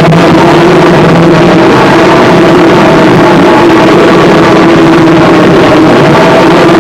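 Harsh noise music: a dense, unbroken wall of distorted noise at full volume, with steady low droning tones running through it and no beat or voice.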